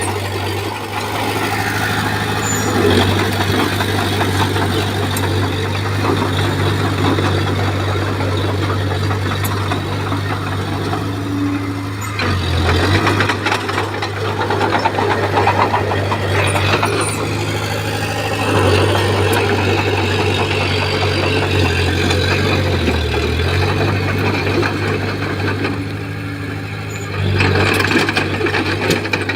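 Bulldozer's diesel engine running steadily under working load, with mechanical noise over a constant low hum. The engine note dips briefly about twelve seconds in and again about twenty-three seconds in, then picks up louder near the end.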